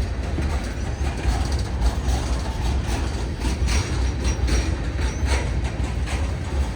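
Freight train rolling past, a steady low rumble with wheel clicks on the rail joints and a few brief faint wheel squeals midway.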